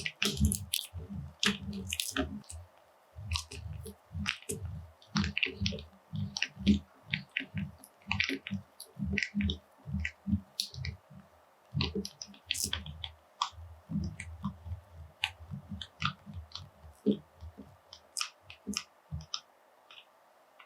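Close-up handling sounds of makeup work: irregular small taps, clicks and soft squishes, thinning out near the end.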